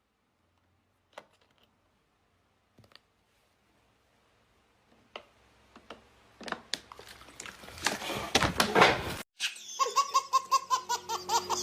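Laughter that begins about halfway through and grows louder, then cuts off suddenly. After a brief gap comes a fast, evenly repeated laughing over a steady musical tone, like a laugh sound effect.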